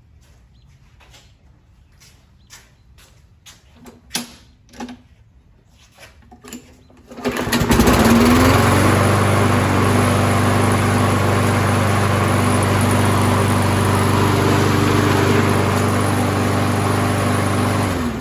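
A few light clicks and knocks, then the Kohler 6.75 engine of a 2012 Toro self-propelled mower starts about seven seconds in, quickly comes up to speed and runs steadily. It is shut off and winds down at the very end. The owner confirms it runs now that the broken muffler bolt is replaced.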